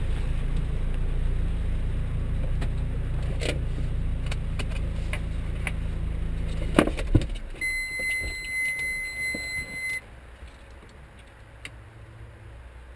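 MG ZR 160's 1.8-litre four-cylinder engine idling in the cabin, then switched off at the key about seven seconds in, with a clink of keys and small clicks. Straight after, a steady electronic dashboard warning beep sounds for about two seconds and stops, leaving the cabin much quieter.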